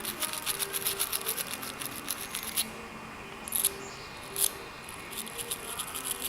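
Steel wire brush scrubbing black carbon gunk off a lawnmower spark plug: quick back-and-forth scratching strokes for about two and a half seconds, then a few scattered strokes.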